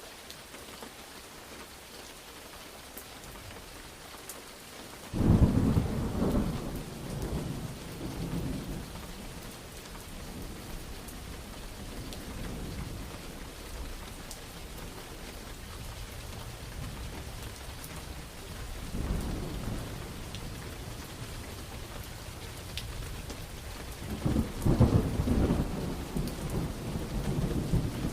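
Steady rain falling, with thunder rolling in twice: a sudden loud clap about five seconds in that rumbles away over several seconds, and another loud rumbling peal near the end.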